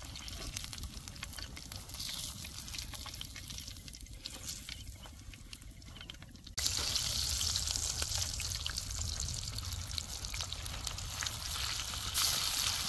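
Masala-coated fish frying, a steady sizzle with fine crackling pops. The sizzle jumps suddenly louder about six and a half seconds in.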